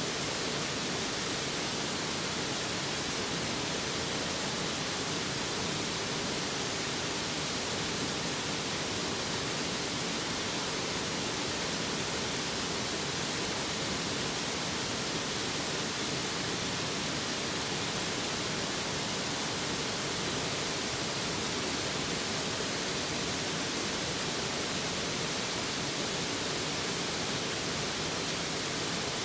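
A mountain stream rushing close by: a steady, unbroken wash of running water.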